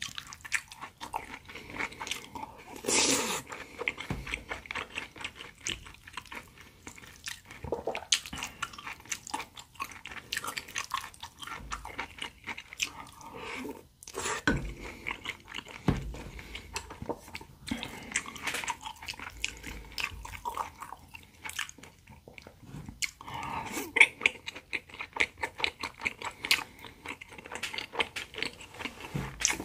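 Close-miked chewing and biting of pan-fried potato and zucchini pancakes and spoonfuls of rice: a dense run of small wet mouth clicks.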